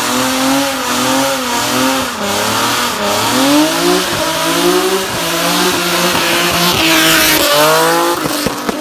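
A car engine being revved repeatedly, its pitch climbing and dropping several times, with a sharper, higher rev about seven seconds in.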